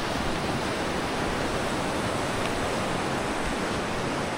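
Steady rushing hiss of surf, even and unbroken.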